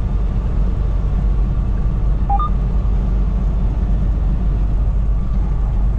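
Steady low drone of a semi-truck's engine and road noise, heard inside the cab while driving at highway speed. A short two-note beep rises in pitch about two seconds in.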